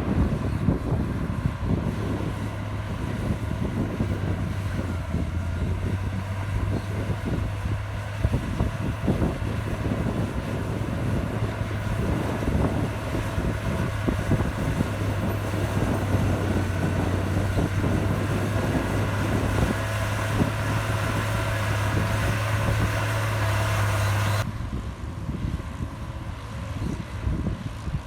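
Heavy diesel earthmoving machinery running steadily under load, with wind buffeting the microphone. Near the end the machine sound cuts off abruptly, leaving mostly wind rumble.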